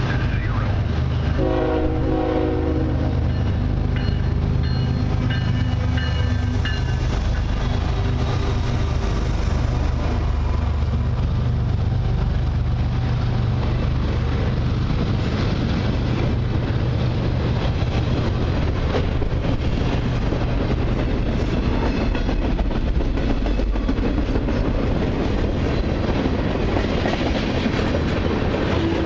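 Freight train passing: the diesel locomotive's horn sounds about a second and a half in and fades over the next few seconds, over a steady low rumble of locomotives and freight cars rolling by with wheels clicking on the rails.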